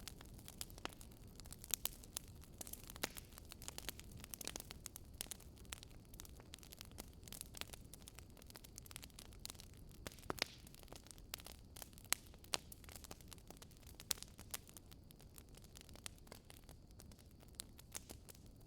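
Wood fire crackling: irregular sharp pops and snaps, several a second, over a faint steady low rumble.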